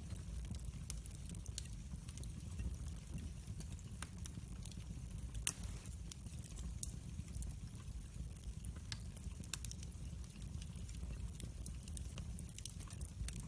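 Wood fire crackling: scattered small snaps and pops over a low steady rumble, with one sharper pop about five and a half seconds in.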